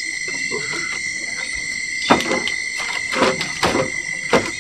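Night insects, crickets, holding one steady high trill. Irregular rustling footsteps come in about halfway through.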